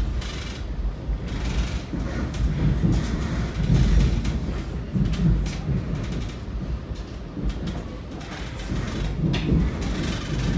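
Metra commuter train in motion on the track, a steady low rumble with irregular clanks and rattles.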